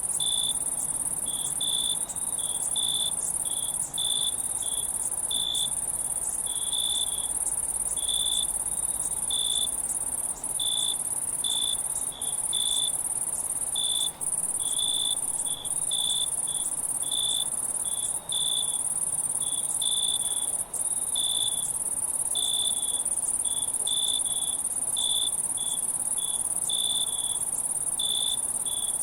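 Night insect chorus of crickets: a steady, high shrill trill with shorter, lower chirps repeating unevenly about twice a second.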